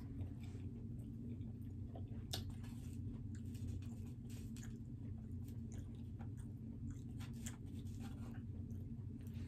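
A person chewing pepperoni pizza close to the microphone: irregular wet mouth clicks and smacks, over a steady low hum.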